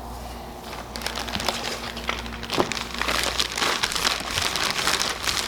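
Plastic packaging crinkling and rustling as it is handled, with many small crackles, getting busier and louder about three seconds in.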